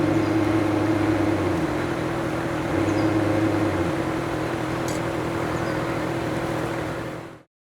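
RC model frigate's electric drive running steadily on the water: a steady motor whine over a rushing wash of wind and water, with a lower hum that comes in twice. The sound cuts off suddenly near the end.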